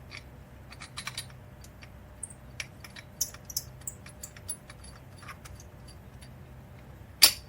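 Light metal clicks and clinks of tools and exhaust hardware being handled, irregular, with one sharper click near the end.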